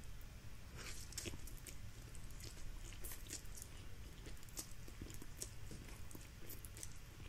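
A person chewing a mouthful of instant fried noodles, faint, with many small wet mouth clicks.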